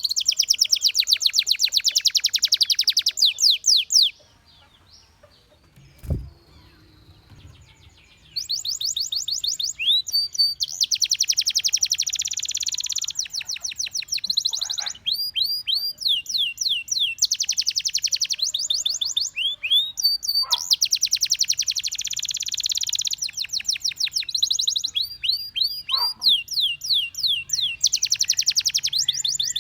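Domestic canary singing in long phrases of rapid trills and fast repeated chirps. There is a pause of a few seconds near the start, broken by a single dull thump.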